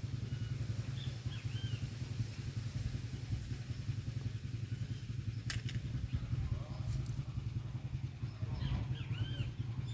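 A steady low rumble with small bird chirps about a second in and again near the end, and two sharp clicks midway.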